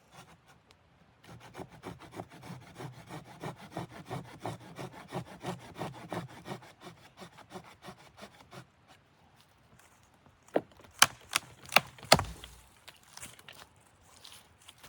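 Wood being cut with a hand saw in a quick run of rasping strokes, stopping after several seconds; a few sharp knocks follow near the end.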